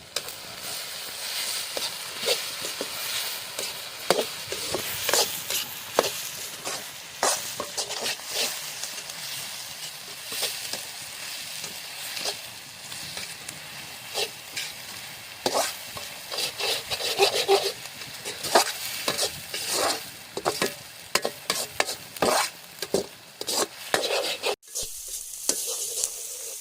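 Onions, curry leaves and green chillies sizzling in hot oil while being sautéed, with a ladle scraping and knocking against the pan at irregular moments. The sound breaks off briefly near the end and comes back quieter.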